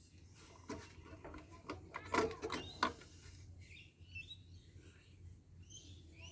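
Light clicks and knocks of hand tools and small metal parts being handled, several in the first three seconds, with faint bird chirping in the background.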